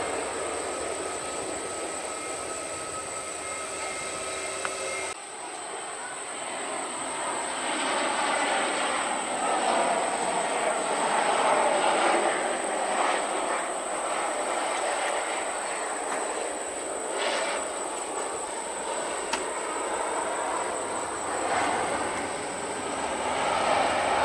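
Jet airliner engines running, a steady rushing noise with a thin high whine, swelling and easing as the aircraft moves. The sound changes abruptly about five seconds in.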